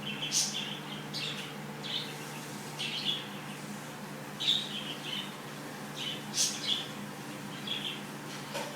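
Cockatiel making short, high chirps at irregular intervals, about a dozen in all, over a steady low background hum.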